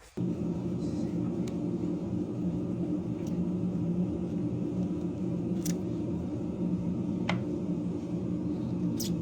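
A steady low motor-like hum that starts abruptly, with a few sharp clicks over it.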